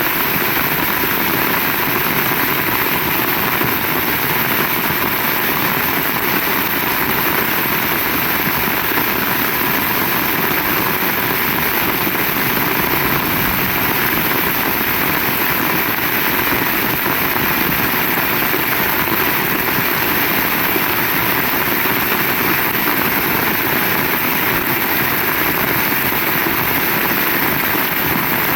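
Heavy rain falling steadily: a dense, unbroken hiss that holds the same level throughout.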